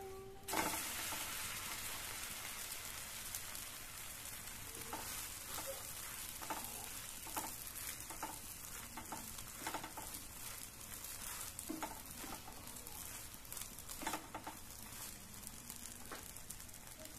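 Thin egg-and-flour wrapper frying in oil in a nonstick pan. It sizzles loudly as it is flipped over and lands, about half a second in, and the sizzle then settles to a steady, slowly fading hiss. A spatula taps and presses on it now and then.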